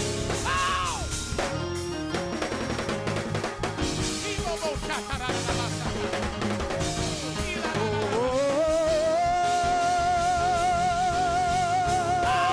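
A live church praise band playing up-tempo music on a drum kit. About two-thirds of the way in, a long high note with a steady vibrato enters and is held through the end.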